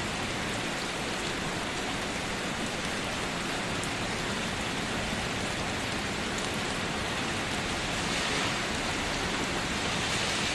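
Steady pouring rain, an even hiss that grows slightly louder about eight seconds in.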